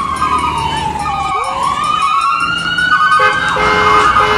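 Fire engine siren wailing: one slow fall in pitch, then a rise. Other steady tones join in near the end.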